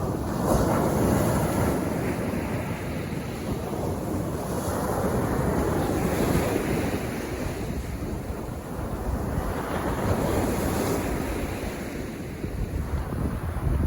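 Sea waves breaking on a beach and washing up the shore, swelling three times as successive waves come in.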